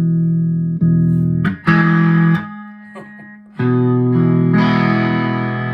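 Squier Telecaster electric guitar played through a Vox AV15 valve amp on a crunchy, driven channel. Chords are struck and left to ring, with fresh strums about a second in and again near the middle, after a brief quieter gap.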